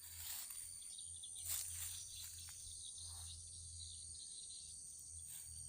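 Insects chirring steadily at a high pitch, with a few brief rustling or scuffing sounds.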